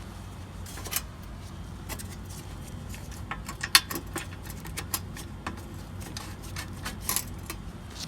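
Scattered metallic clicks and clinks of a socket wrench on the 12mm bolts holding down a car's battery tray, the sharpest a little before the middle, over a steady low hum.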